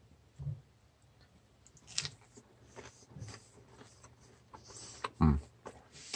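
A person biting into and chewing a breaded fried chicken ring dipped in ranch, with small crunches and wet mouth clicks, and a short louder sound about five seconds in.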